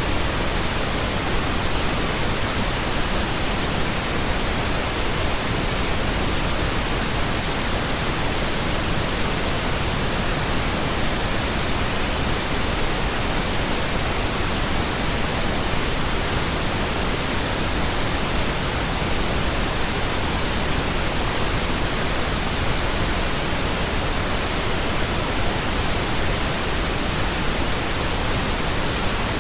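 Steady pink noise: an even, unchanging hiss spread across all pitches, with no breaks or changes.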